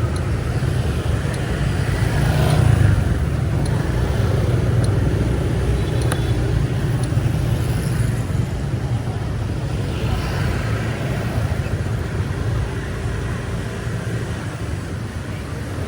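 Street traffic noise: a steady low rumble of passing vehicles on a city street, swelling briefly about three seconds in.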